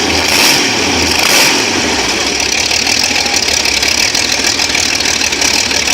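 An engine running, with a regular puff about once a second for the first second and a half, then running evenly.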